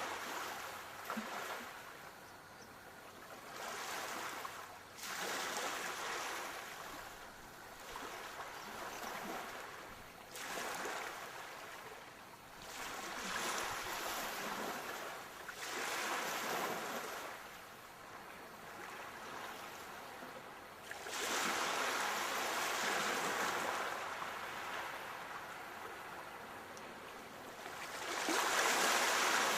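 Sea waves rolling in and breaking, in a rushing wash that swells and fades every few seconds, loudest about three-quarters of the way in and again at the end.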